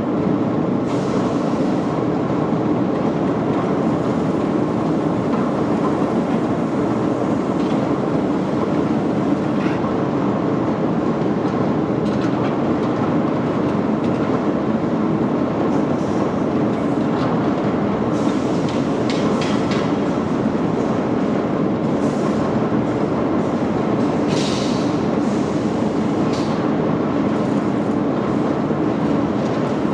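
Steady, loud machinery rumble with scattered short clinks and scrapes on top.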